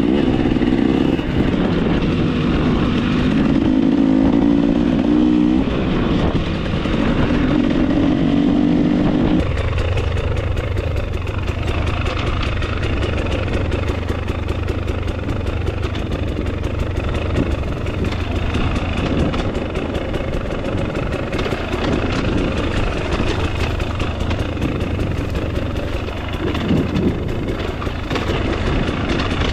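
KTM 300 XC-W two-stroke single-cylinder dirt bike engine revving up and down for the first nine seconds or so, then pulling at a lower, steadier note. Short knocks and rattles from the bike running over rough trail come through alongside the engine.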